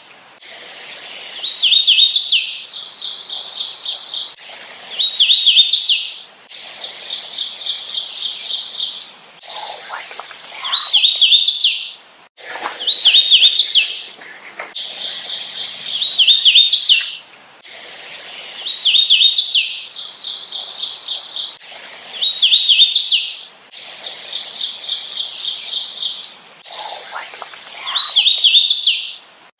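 Hooded warbler singing its short, clear song over and over, a phrase ending in a rising note about every two to three seconds. Quieter runs of rapid short notes fall between some of the songs.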